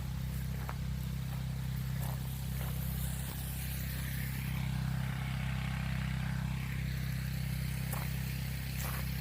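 The motor-driven pump on a 500-gallon water buffalo tank running steadily with a low, even hum, and from about three seconds in the hiss of water spraying from the garden hose.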